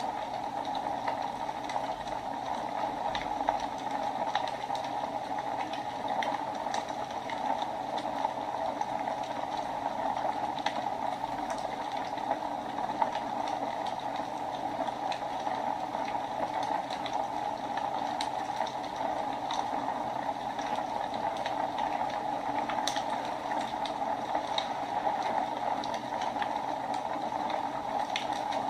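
Fire burning in a fireplace, crackling with irregular sharp pops and snaps over a steady hiss.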